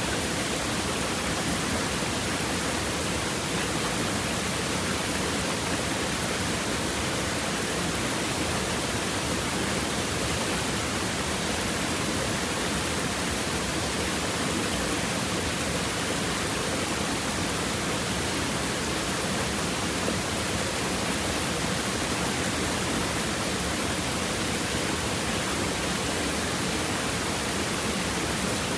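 Stream water flowing and babbling over rocks, a steady, even rush with no pauses or separate splashes.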